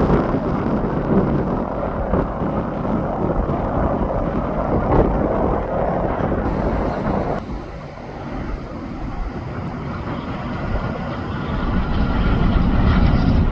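Interstate highway traffic passing, with the noise of semi-truck and car engines and tyres. About seven seconds in, the noise cuts abruptly to a quieter level, then swells again near the end as another vehicle approaches.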